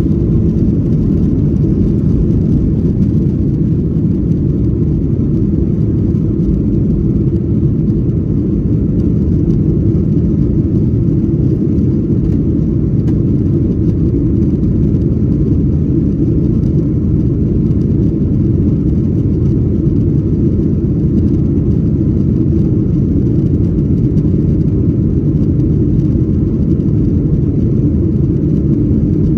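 Steady, loud low rumble inside the cabin of a Boeing 737-800: its CFM56-7B jet engines and the airflow, unchanging throughout.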